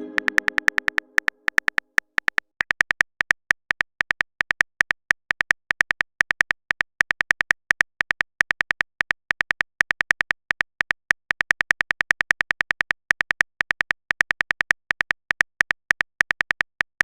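Rapid, irregular keyboard-typing clicks of a texting-story app's typing sound effect, several a second with brief pauses, while a chime from a message fades out during the first two seconds.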